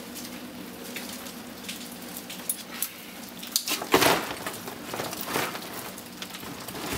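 Bundles of insulated copper wire being handled and dropped into a cardboard box on a scale: scattered rustles and clicks, with a louder clatter about four seconds in, over a faint steady hum.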